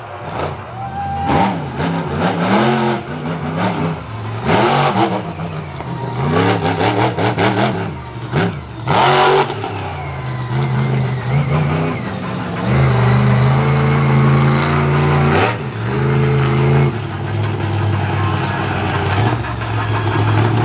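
Vehicle engines revving up and down, with several sudden loud spikes, then settling into a steadier drone about halfway through.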